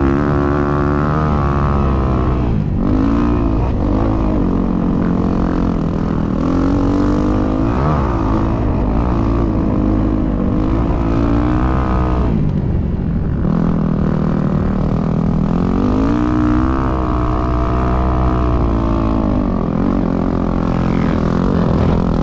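Dirt bike engine under way, its pitch rising and falling over and over as the throttle is opened and closed, with brief drops in power about three seconds in and again around twelve to thirteen seconds.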